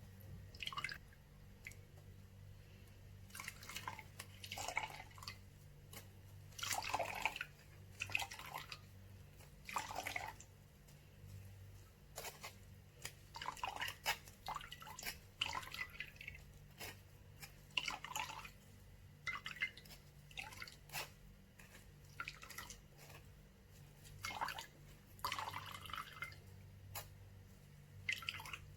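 Wet blended parsley and ginger pulp being pressed and worked in a strainer, with juice dripping and squelching into a bowl in irregular bursts. A low steady hum runs underneath.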